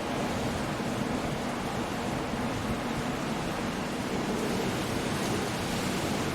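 Coastal storm ambience: a steady wash of surf and wind-driven noise with no distinct impacts.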